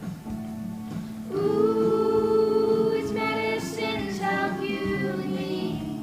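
Children's choir singing a song with musical accompaniment, a long held note starting about a second in.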